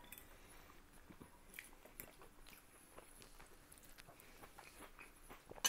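Faint chewing and mouth sounds of a man eating potato-and-meat casserole, with small clicks of a metal fork against a plate and one sharper click near the end.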